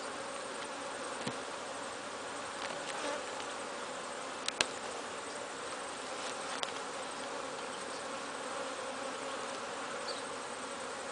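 Steady buzzing of a honeybee colony in an opened hive during a frame-by-frame inspection, with a few sharp clicks, the loudest about four and a half seconds in.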